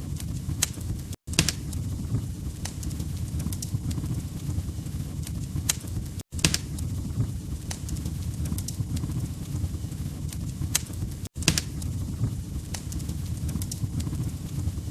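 Wood fire crackling: sharp pops and snaps over a steady low rumble of burning logs. The sound cuts out for an instant three times, about five seconds apart.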